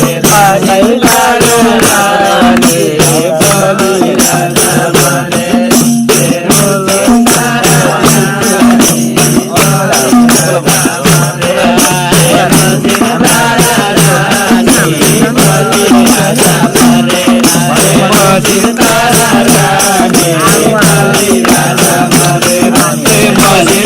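Voices singing a Nepali folk song over hand percussion that keeps a steady, fast beat.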